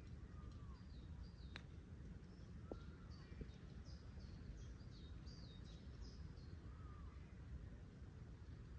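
Faint outdoor ambience: small birds chirping, short high notes repeated many times, with three lower arched calls spread through and a steady low rumble of wind on the microphone underneath.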